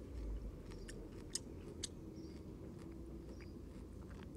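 A person chewing a mouthful of blanched cleavers (goosegrass), the tough, stalky stems giving a few short sharp clicks as they are bitten.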